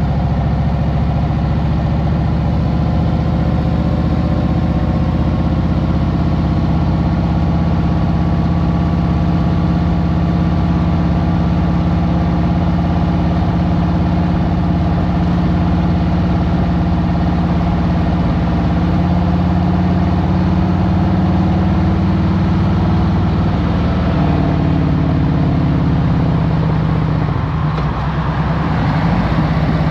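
2023 Harley-Davidson Road Glide Special's Milwaukee-Eight V-twin running under way, its pitch easing down slowly, with a short dip near the end before it picks up again.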